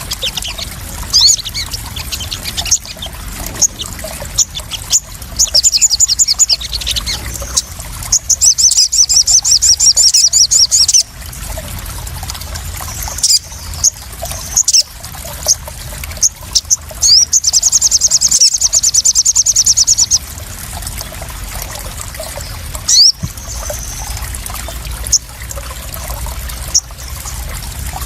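Water splashing and trickling steadily, with small sunbirds (sogon) chirping over it. Rapid trilled bursts come in three runs: about five seconds in, around nine seconds, and again from about seventeen to twenty seconds.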